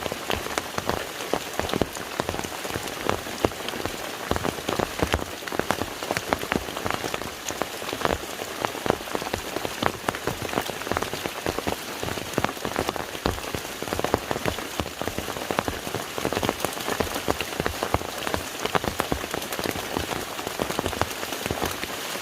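Rain falling on a lake, a steady dense patter of many individual drops hitting the water.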